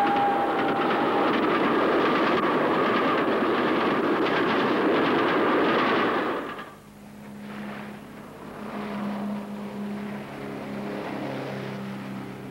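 A train passing close by: a loud steady rush of wheels and carriages, with a whistle that fades out about a second in. The rush drops away sharply after about six and a half seconds, leaving a quieter low steady hum.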